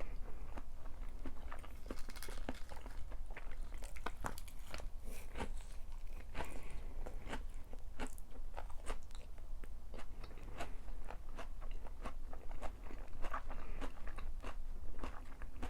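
Close-miked chewing of crunchy food: a steady run of small, crisp crunches and bites, over a low steady hum.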